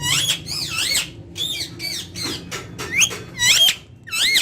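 Indian ringneck parakeet chattering: a rapid run of short, high, squeaky notes that bend up and down in pitch, about two a second.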